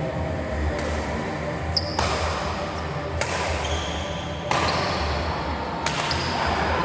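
Badminton rackets striking the shuttlecock in a rally, a sharp hit with hall echo about every second and a quarter, four clear strokes and a fainter one near the start, over a steady low hall hum.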